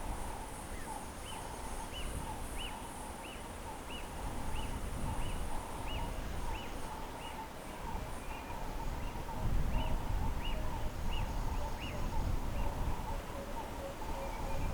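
A bird repeats a short, high, clipped note about one and a half times a second, as a steady even series, over a background of other birds and a pulsing insect buzz. A low rumble comes in about halfway through.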